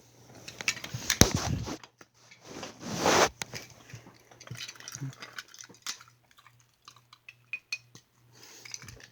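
Die-cast metal toy cars being handled and set down, clinking and clattering against each other, with scattered sharp clicks.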